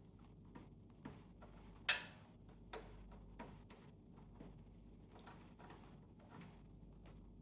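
Scattered light clicks and taps from the parts of an air conditioner's indoor unit being handled during disassembly, with one sharper click about two seconds in.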